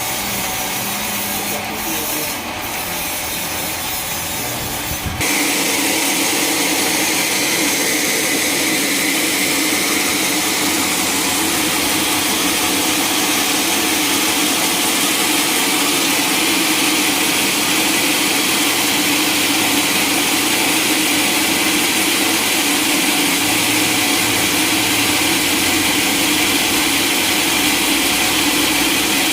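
Sawmill saw cutting lengthwise through a log, a steady sawing noise. About five seconds in the sound changes suddenly and grows a little louder, then holds steady through the cut.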